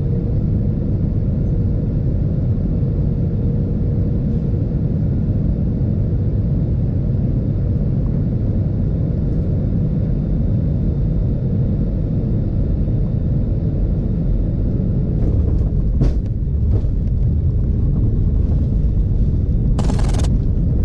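Airbus A320 cabin noise on landing: a steady low rumble. About three-quarters of the way through come a few knocks and a sharp thump as the wheels touch down, and the rumble of the landing roll continues. A short burst of noise comes near the end.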